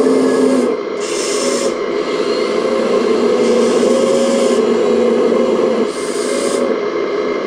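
Radio-controlled model excavator running, its motors giving a steady whine that shifts in pitch and cuts in and out every second or so as different movements are worked, with a grainy rasping noise that comes and goes.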